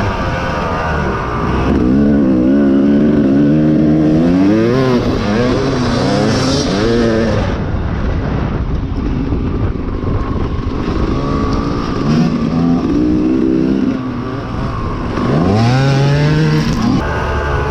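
Dirt bike engine revving up and falling back again and again as the bike is ridden hard off-road, with the pitch climbing sharply several times.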